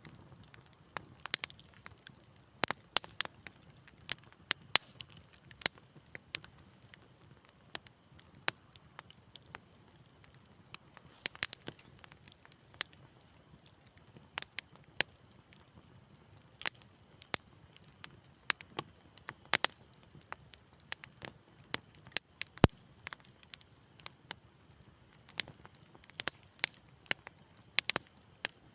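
Wood fire in a fireplace crackling: irregular sharp pops and snaps of varying strength over a soft low hiss, with one especially loud pop near the end.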